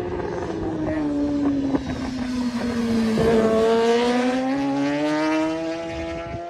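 Racing motorcycle engine at high revs, its pitch falling slowly as the bike slows for a corner, then climbing again as it accelerates out.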